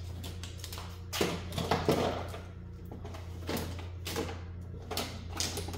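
Plastic water bottles being handled and set into a fridge: a series of short knocks and crinkles, the loudest about a second or two in, over a steady low hum.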